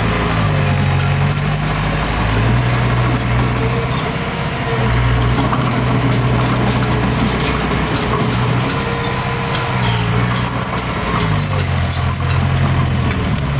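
Heavy earthmoving machine's diesel engine running under changing load, its pitch dropping and rising several times, with faint clanks over it.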